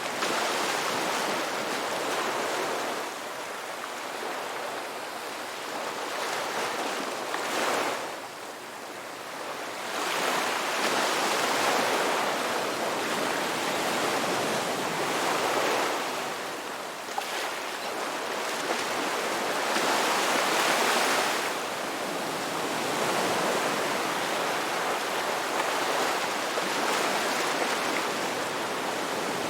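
Ocean waves breaking and washing on a shore, a continuous surf rush that swells and eases every few seconds.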